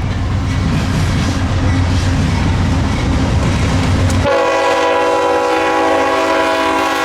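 Freight train led by CSX locomotives rumbling past. About four seconds in, the low rumble drops away and a multi-chime locomotive horn starts, holding one steady chord.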